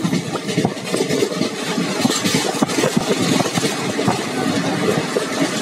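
Passenger train running at speed, heard from aboard: a steady rumble with dense, irregular clatter of wheels on the rails.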